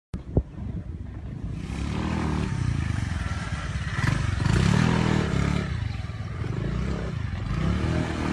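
Motorbike engine revving, its pitch rising and falling several times, with a sharp knock near the start.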